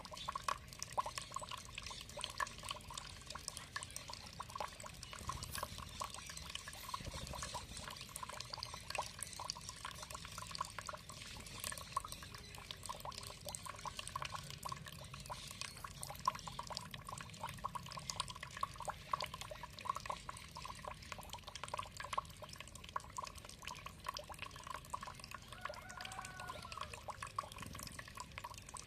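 Water trickling and splashing steadily, a dense run of small drips and splashes, with a faint bird call near the end.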